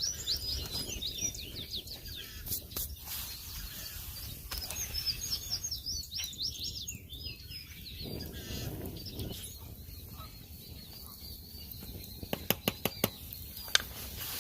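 A songbird singing two phrases of rapid high chirps, one at the start and one about five seconds in. Near the end come a few sharp clicks or cracks.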